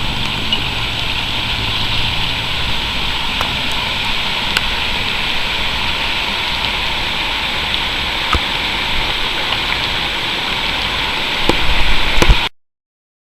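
Steady rain falling, a constant hiss with scattered small ticks of drops. Near the end come a few louder low thumps, then the sound cuts off abruptly.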